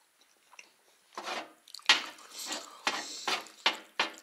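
Wet chewing and lip-smacking close to the microphone while eating casserole. A run of short smacks starts about a second in, with several louder ones near the end.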